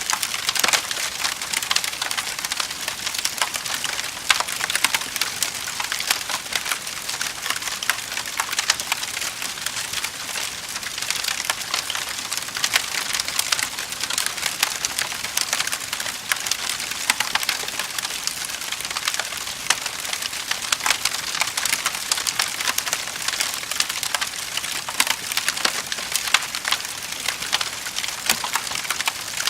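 Wood fire in a fireplace crackling and popping steadily, a dense run of sharp snaps over a soft hiss.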